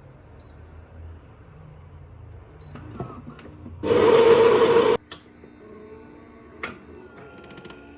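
Small clicks and taps of objects being handled on a desk, with one loud whirring burst about a second long near the middle.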